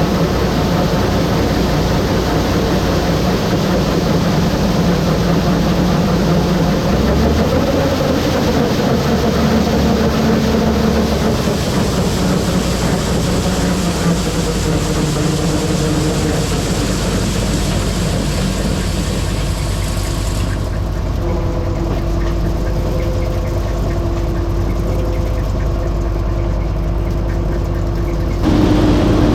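Heavy harvest machinery engines running steadily under load. About two-thirds of the way through the higher hiss drops out abruptly, and just before the end a louder, different engine sound takes over.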